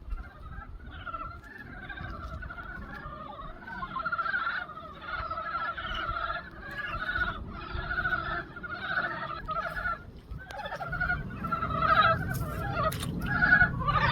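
Chorus of frogs calling in a pond: many overlapping, rapidly pulsed croaks that grow louder and denser toward the end. A low rumble joins in about eleven seconds in.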